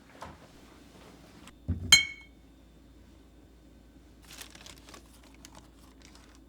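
A piece of kitchenware set down on a hard surface with a dull knock and then a bright, ringing clink about two seconds in. Faint light rustling and small ticks follow a couple of seconds later.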